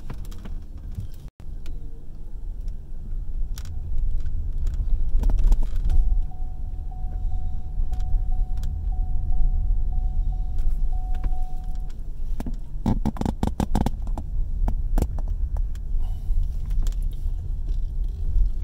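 Car cabin while driving slowly: a steady low engine and road rumble. A thin steady whine runs for several seconds midway, and a quick run of rattling clicks follows it.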